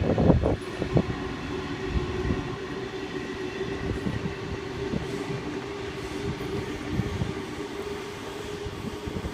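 Waratah A-set electric train passing through the station: a steady whine runs throughout, with a cluster of sharp wheel clacks over the rail joints in the first second and scattered ones after.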